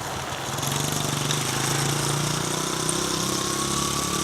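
Honda CRF70F dirt bike's small four-stroke single-cylinder engine running as the bike is ridden at low speed. The engine note is steady and climbs a little in the second half.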